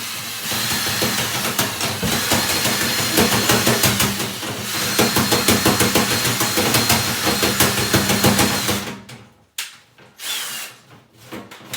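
Drill spinning a flexible brush-and-rod dryer vent cleaning kit inside the duct: a dense rattling and scraping of the rods and brush, with the drill motor's thin high whine. It stops about nine seconds in, leaving a few light knocks.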